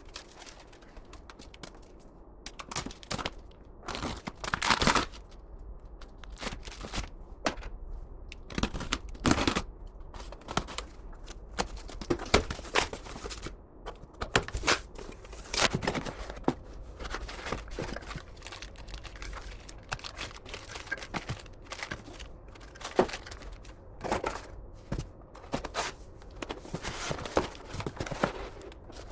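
Irregular sharp clicks and knocks mixed with crinkling, from things being handled in a small room, over a steady low hum.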